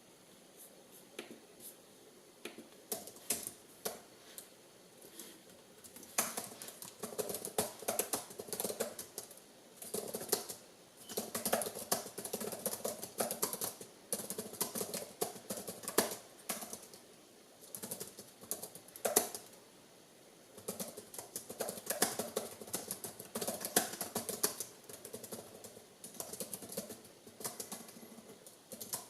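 Spinning gyroscope making its twisting noise: irregular bursts of rapid clicking and rattling, sparse at first and denser from about six seconds in.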